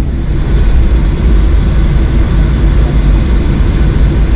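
Boeing 737-800 with CFM56-7B engines taxiing, heard from inside the cabin: a loud, steady low rumble of the engines at low thrust, with a faint steady whine above it.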